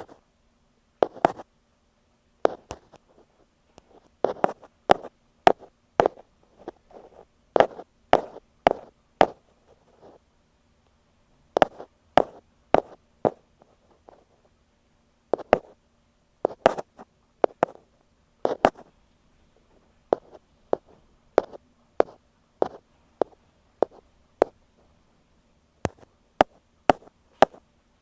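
Close-up tapping on an earphone microphone in ear-cleaning ASMR style: sharp irregular taps, some single and some in quick runs of two or three, with short pauses between groups.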